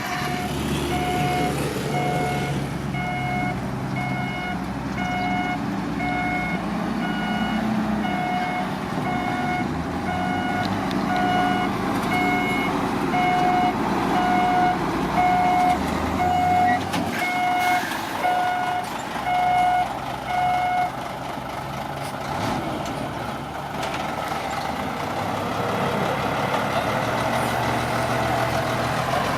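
Heavy diesel machinery running steadily, with a reversing alarm beeping about once a second that stops about two-thirds of the way through: a backup alarm sounding while the machine, likely the D41P bulldozer, drives in reverse.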